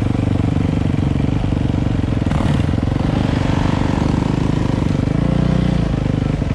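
Dirt bike engine running steadily at low revs, its exhaust pulsing rapidly and evenly.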